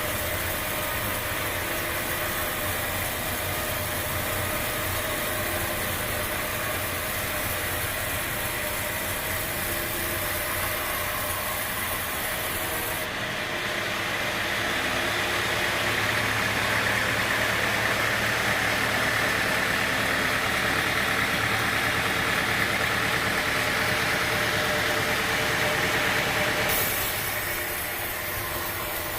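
Sawmill machinery running steadily. The sound changes abruptly about halfway through, becoming a little louder with a stronger high whine, then changes back shortly before the end.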